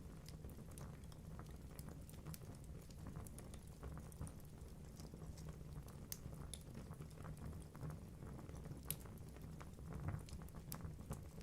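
Wood fire burning in a fireplace: a steady low rumble of the flames with irregular crackles and pops from the logs, a sharper pop about nine seconds in and a cluster around ten seconds.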